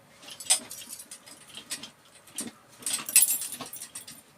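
Handling noises of small hand tools: scattered rustles with light metallic clicks and clinks, the busiest stretch about three seconds in.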